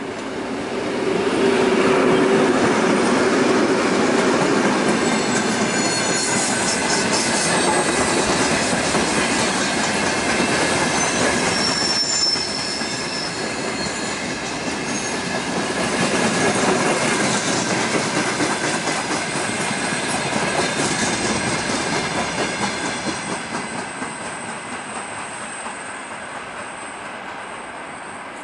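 Two ST44 (M62 'Gagarin') diesel locomotives pass with a short broad-gauge freight train. Their two-stroke V12 engines drone loudly about a second in, followed by the rumble and clickety-clack of the wagons over the rails with thin, high wheel squeals. The sound fades away near the end.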